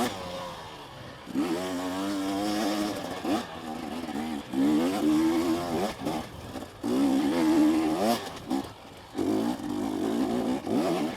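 Two-stroke KTM 250SX dirt bike engine revving in about five short bursts as the throttle is opened and shut over rough trail, the pitch climbing and dropping with each burst.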